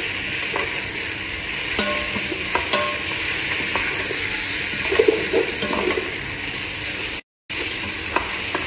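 Flaked fish, onions, garlic and chili sizzling in olive oil and ghee in a metal pot, stirred with a wooden spoon that scrapes and knocks against the pot every second or so. The sound cuts out completely for a moment near the end.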